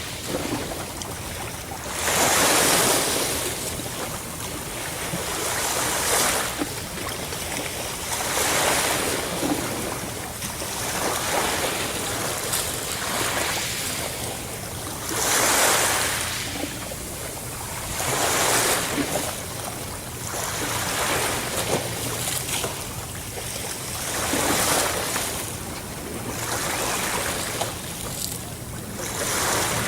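Sea waves breaking and washing ashore in a steady, repeating rhythm, a surge every two to three seconds.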